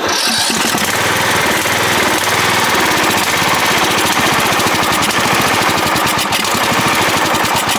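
Cub Cadet 1170 riding mower's 17.5 hp overhead-valve engine starting abruptly and running steadily and loudly with a fast, even firing beat. The owner believes its carburetor has gone bad.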